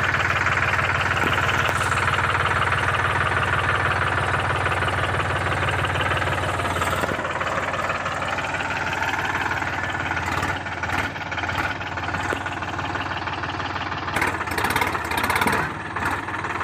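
Sonalika Sikandar tractor's diesel engine running steadily. About seven seconds in the low hum drops and the engine note shifts, and from about ten seconds on, short sharp knocks break in now and then, loudest around fourteen to sixteen seconds.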